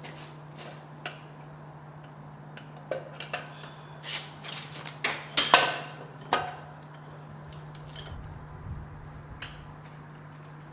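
Metal hand tools clinking and scraping against metal parts in short, scattered clanks, with a busy cluster of louder clanks in the middle, over a steady low hum.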